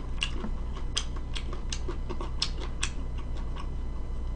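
Close-up chewing of pizza with the mouth closed: soft wet mouth clicks at a steady chewing pace of about two or three a second.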